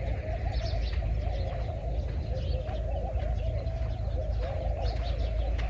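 Doves cooing repeatedly, with faint chirps of small birds, over a steady low rumble.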